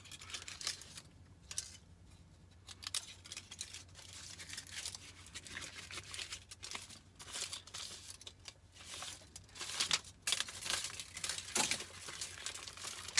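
Aluminium foil and paper layers of an electrolytic capacitor being peeled apart and crumpled by hand, with irregular crinkling and tearing.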